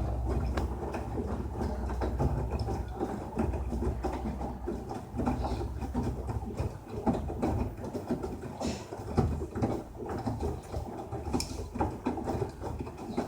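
LG 6 kg direct-drive front-loading washing machine mid-cycle: the drum turning with a low rumble while wet clothes and water tumble and slosh inside, giving a dense run of irregular soft knocks and patter.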